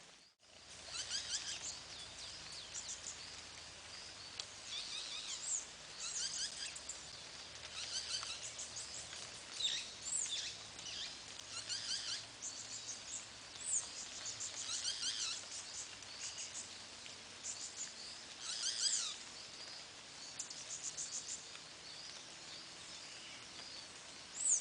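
Birds calling and chirping in the countryside: many short, high, repeated chirps and quick whistled notes, coming in clusters every second or two, over a faint steady outdoor hiss.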